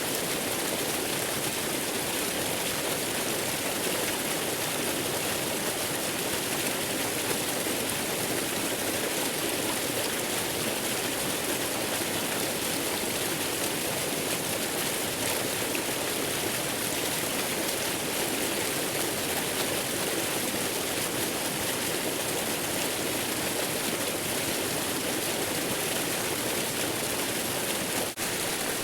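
Waterfall rushing steadily: an even, unbroken wash of falling water, with a split-second dropout near the end.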